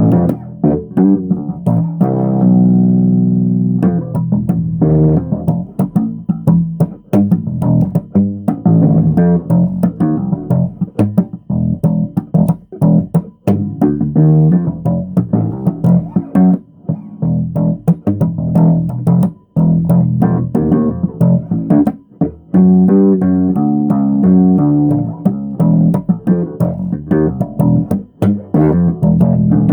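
Bass guitar played solo: a continuous run of plucked notes with sharp attacks, with one note held for about a second and a half near the start.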